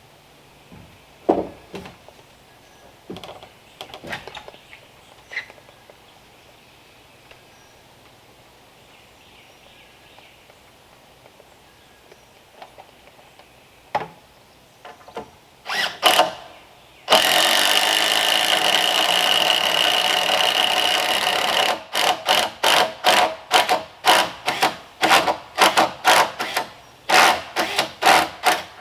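A few scattered knocks, as of wood and tools being handled. Then a hand-held power tool runs steadily for about four and a half seconds with a steady whine, and is run again in a quick series of short bursts, about two a second.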